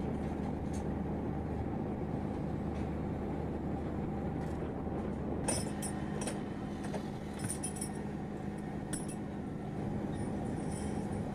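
Steady low engine drone, with a few light clinks in the middle.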